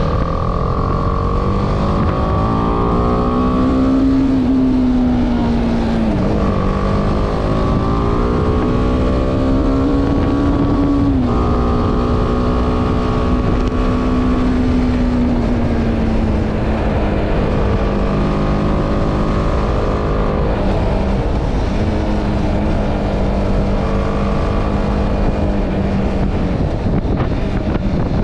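BMW G310R's single-cylinder engine pulling under way, its pitch rising and dropping sharply at gear changes about 6 and 11 seconds in, then holding steadier with smaller rises and falls. Wind rushes over the microphone.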